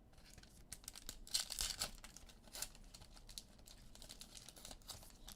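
Trading-card pack wrapper crinkling and tearing as cards are handled, in irregular rustles that are busiest about one to two seconds in.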